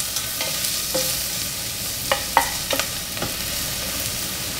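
Chopped red onion and garlic sizzling in hot oil in a stainless-steel pressure cooker pot, stirred with a wooden spatula that scrapes and knocks against the pot now and then.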